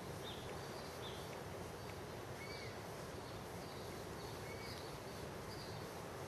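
Birds chirping: short, arched calls repeating every second or so over a steady outdoor background hiss.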